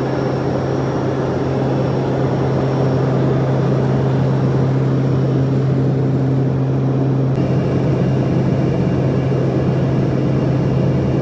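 Steady road and engine drone of a car driving, with a strong low hum. The tone shifts abruptly about seven seconds in.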